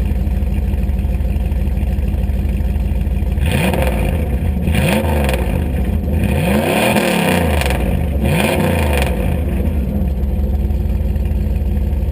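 A 1999 Dodge Durango's straight-piped 5.9 L (360) V8 idles, then takes several quick blips of the throttle between about three and nine seconds in, each rising and falling in pitch, before settling back to idle.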